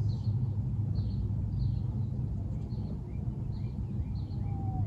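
Small birds chirping, short high calls repeating about every half second, over a steady low outdoor rumble.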